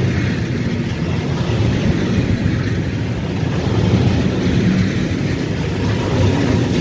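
Freight train rolling by, a steady low rumble.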